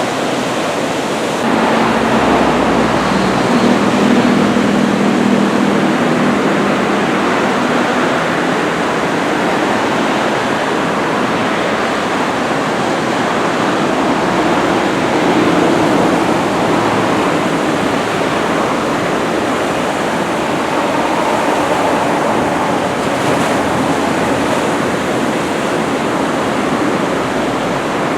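Continuous, loud rush of ocean surf breaking, the large swell of a typhoon.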